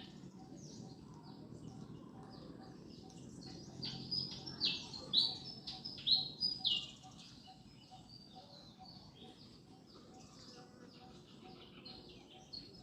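Birds chirping in quick, overlapping high calls with short falling notes, loudest between about four and seven seconds in, over a low steady background noise.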